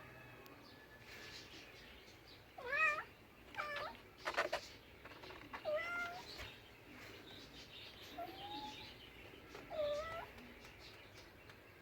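Domestic cat meowing: about five short meows, the first about two and a half seconds in and the last near ten seconds.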